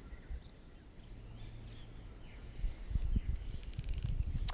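Outdoor wind noise rumbling on the microphone with faint bird chirps. It gets louder, with knocks, in the last couple of seconds, and a quick run of clicks comes about three and a half seconds in.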